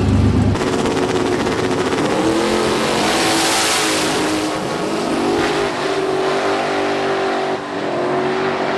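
Race car engine accelerating hard in a drag race, its pitch climbing and dropping back several times as it shifts up through the gears. A loud hiss sweeps through about three seconds in.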